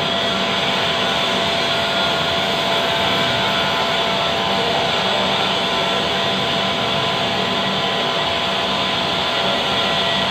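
Lathe running steadily: a constant mechanical whirr with several steady tones held throughout.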